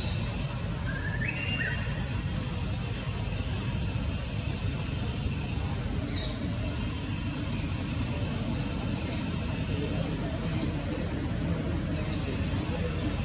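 A bird repeating a short, high, falling call about every one and a half seconds, with one lower rising chirp earlier, over a steady high thin tone and a steady low background noise.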